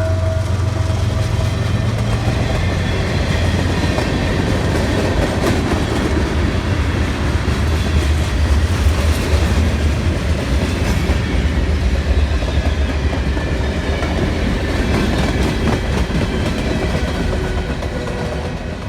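Freight train rolling past: a steady heavy rumble with the clickety-clack of wheels over the rails, easing off a little near the end.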